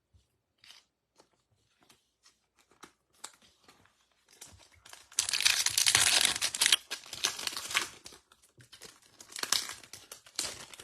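Foil trading-card pack being torn open and its wrapper crinkled, loudest from about five to eight seconds in, with shorter crinkles near the end. Faint light ticks of cards being handled come before it.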